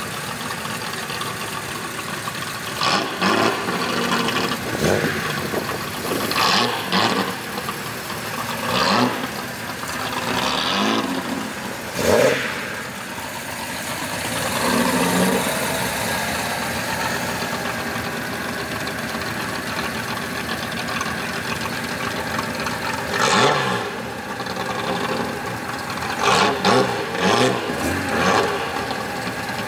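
Engines of old Nissan cars, a lowered Laurel SGX hardtop among them, running as they drive slowly past, with the throttle blipped about ten times so the engine note swells and falls back.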